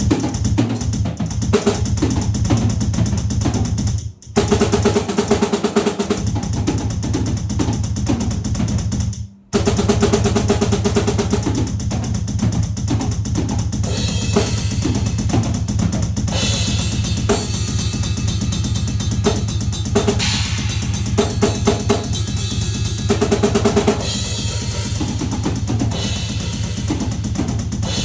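Drum kit played in fast, continuous strokes of bass drum and snare, stopping briefly twice, about four and about nine seconds in.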